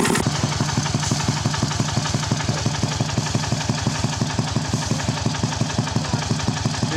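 Khmer tractor engine running at a steady idle, with an even chugging beat of about four to five pulses a second.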